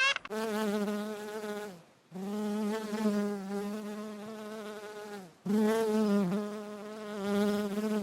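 Insect buzzing in flight, a steady low drone heard three times, each buzz sagging in pitch as it stops.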